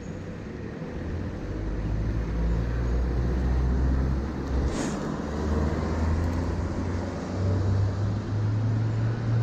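Road traffic passing close by, a low rumble that swells after about a second and stays up, with a brief hiss about halfway through.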